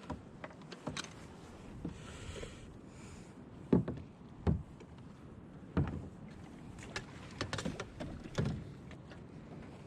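A series of irregular knocks and thumps, the loudest about four seconds in, with a brief hiss and light handling noise between them.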